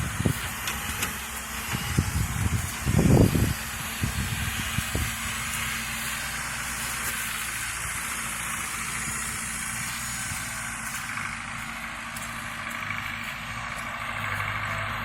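A heavy vehicle's engine running at idle under a steady hiss of rain. There are several low thuds in the first five seconds, the loudest about three seconds in.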